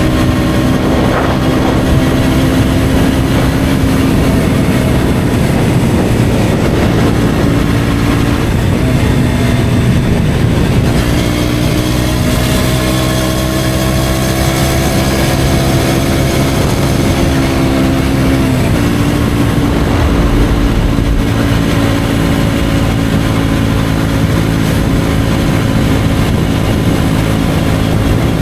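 KTM Duke 125's single-cylinder four-stroke engine through an Akrapovic exhaust, running steadily under way with the bike being ridden. The engine note holds for long stretches and shifts pitch in small steps a few times, around 8, 11 and 19 seconds in.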